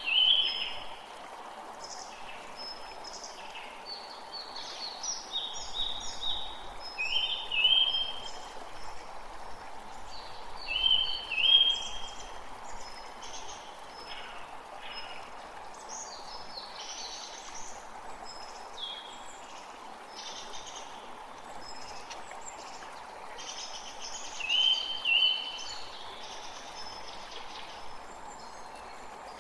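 Birds singing over the steady rush of a forest creek, with short, bright phrases every few seconds, a few of them louder than the rest.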